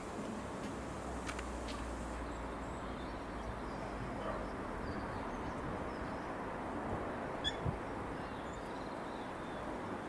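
Steady outdoor background noise with faint bird chirps, a brief sharper chirp about seven and a half seconds in, and a few sharp clicks near the start.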